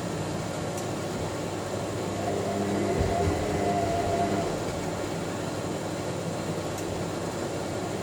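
Front-loading washing machine drum turning during the main wash, with a steady rumble. A motor whine comes in about two seconds in, and there is a dull knock from the tumbling laundry.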